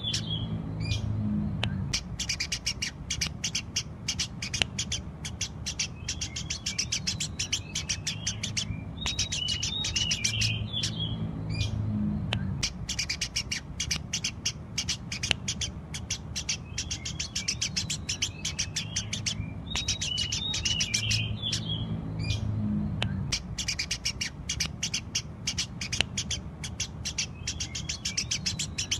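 Eurasian tree sparrows chirping without a break in a dense run of short, sharp chirps, many a second, over a low steady hum. The same stretch of chirping seems to come round again about every eleven seconds.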